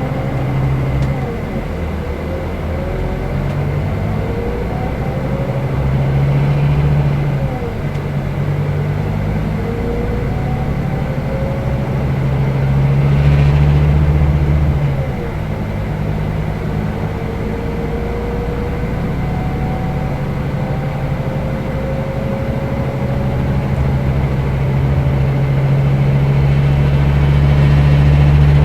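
Scania K320 IB coach's diesel engine running steadily under way, its note building and then dropping back at gear changes of the Opticruise gearbox about seven and fifteen seconds in, with faint rising whines above the low hum.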